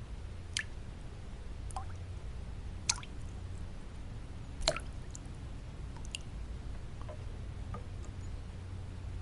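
Water drops falling one at a time at irregular intervals, about seven short plinks, the loudest one a little over halfway through, over a steady low white-noise hum.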